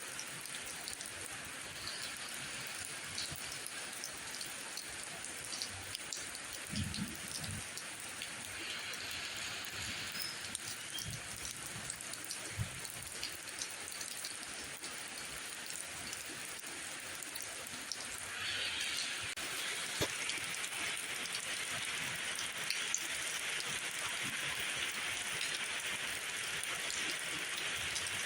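Steady rainfall, a dense hiss with many single drops ticking on surfaces. About two-thirds of the way through the rain grows heavier and brighter. Early on there are a couple of soft low thuds.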